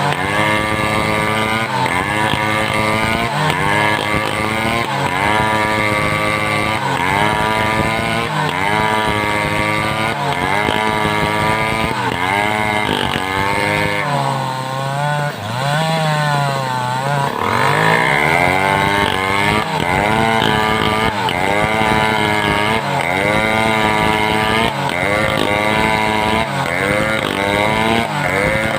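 Home-assembled two-stroke chainsaw cutting timber. The engine pitch sags and recovers in a steady rhythm, about once every second or so, as it works through the wood. About halfway through it bogs down deeply for a few seconds, then revs back up.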